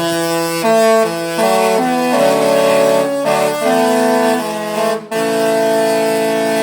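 Disney Destiny cruise ship's musical horns playing a tune: several horn notes held together in changing chords, a short break about five seconds in, then a long held chord.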